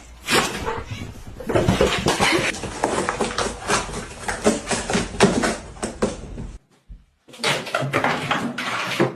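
A pet cat's noises with bumping and rustling, broken by a brief dropout about two-thirds of the way through.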